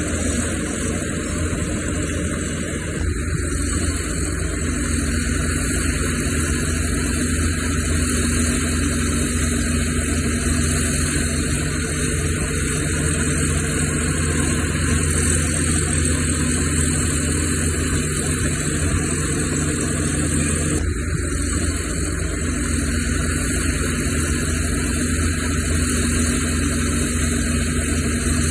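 Heavy-equipment diesel engine running steadily under a haze of mechanical noise, with an abrupt change in the sound about three seconds in and again about twenty-one seconds in.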